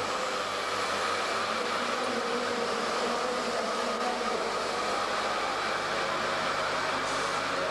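Small mini bike (minimoto) engine buzzing steadily at high revs.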